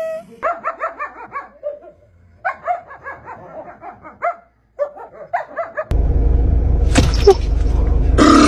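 A dog barking in quick runs of short yips, about eight a second, with brief pauses between runs. About six seconds in, this gives way suddenly to a loud rushing noise with a few sharp knocks.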